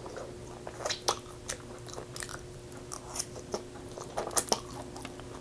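Close-miked chewing of a mouthful of carne asada fries: soft, irregular wet mouth clicks and smacks, over a faint steady hum.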